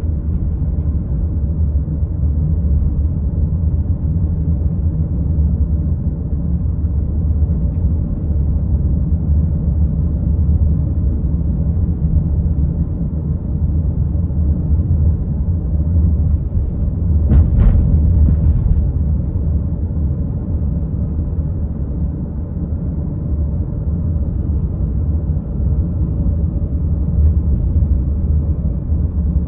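Steady low rumble of a car being driven: road and engine noise. One sharp click or knock a little past halfway.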